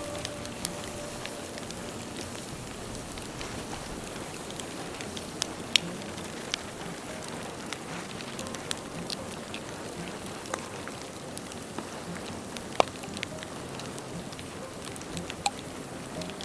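Bonfire of dead bamboo burning, a steady hissing crackle with sharp pops at irregular intervals, the loudest pop about 13 seconds in.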